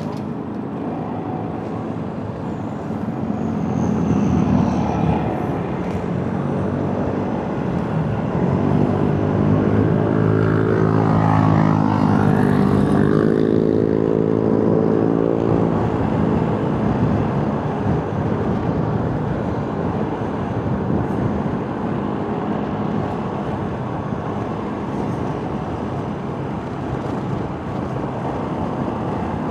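Motorcycle on the move in traffic: steady engine and road noise, with an engine note that swells and is loudest about ten to fifteen seconds in.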